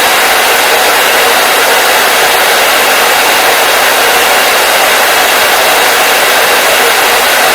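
Hair dryer blowing steadily, a constant loud rushing hiss with no change in pitch or level.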